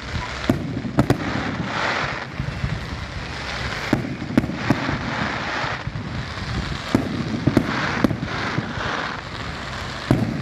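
Daytime fireworks going off: a dozen or so sharp bangs at irregular intervals over a steady background din.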